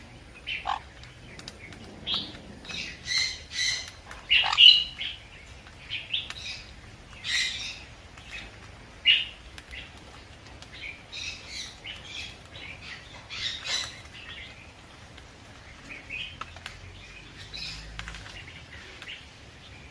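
Sun conure calling: a string of short, shrill squawks and chirps, repeated every second or so, loudest in the first half.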